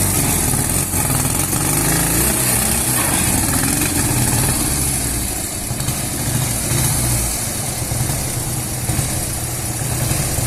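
Ural IMZ-8.103.10 motorcycle's air-cooled flat-twin engine running at idle, a little quieter about halfway through.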